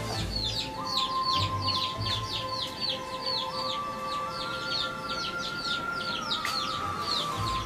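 Birds chirping rapidly and without pause, about five short, high, falling chirps a second.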